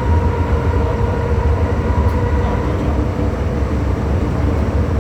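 MTR M-Train electric multiple unit running between stations: a steady low rumble of wheels and running gear with a faint steady whine from the drive, heard from on board.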